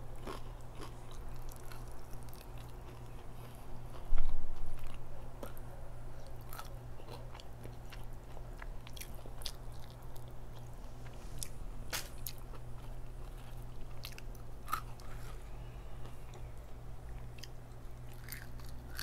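Close-miked chewing and biting of crispy fried chicken pulled apart by hand, with many small crunches and mouth clicks over a steady low hum. A loud low thump comes about four seconds in.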